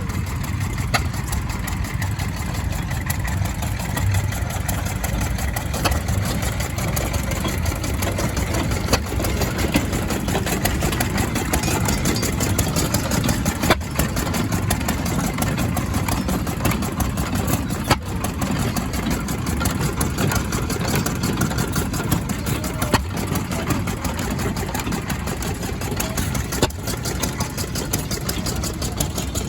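An engine running steadily at an even pace, with a rapid regular beat and a few sharper ticks along the way.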